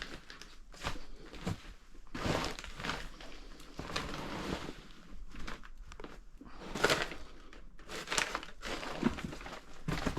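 Junk and papers rustling and crunching underfoot in irregular scuffs and shuffles as someone clambers over piled-up clutter.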